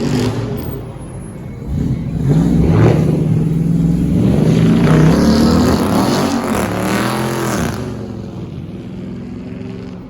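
Car engine revving hard: a held high-rev note, then several quick rises and falls in pitch as the throttle is blipped, before the sound fades away.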